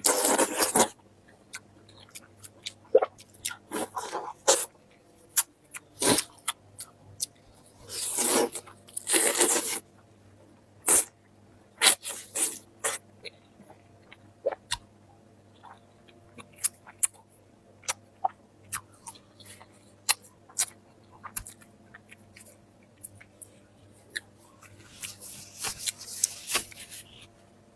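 Close-miked eating: a person chewing and crunching food, heard as many short, irregular clicks and smacks with a few longer noisy stretches, over a faint steady hum.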